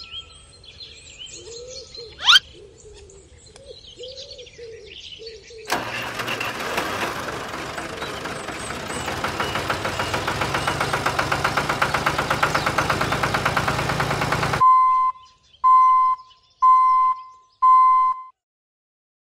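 A motor starts and runs with a fast, even chugging beat that grows louder, then stops abruptly. Four short beeps follow. Before it there are faint bird chirps and a quick rising whoosh.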